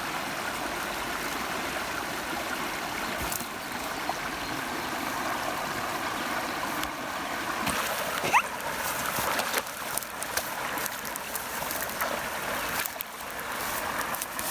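River water running with a steady rushing sound, with scattered small splashes and knocks in the second half and a brief rising squeak about eight seconds in.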